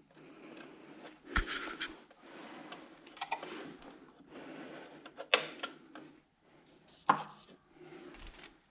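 Hard objects being handled: a few sharp knocks and clicks about every two seconds, with a short burst of hiss-like noise about a second in.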